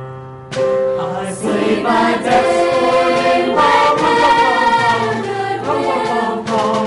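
High school vocal ensemble singing a Christmas song in harmony. One phrase fades out at the start, and the next comes in suddenly about half a second in.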